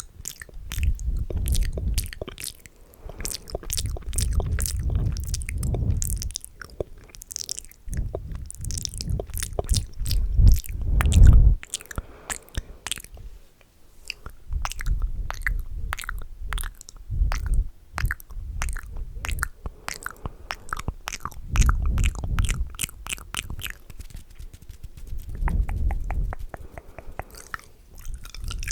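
ASMR mouth sounds very close to a microphone: fast, wet clicking and smacking of lips and tongue. They come in dense runs of rapid clicks over a low thumping, broken by a few short pauses.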